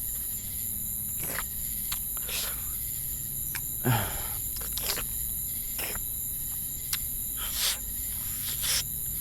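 Night forest ambience of crickets chirping steadily, with about half a dozen short, close mouth sounds scattered through it, the loudest about four seconds in, as of someone tasting blood.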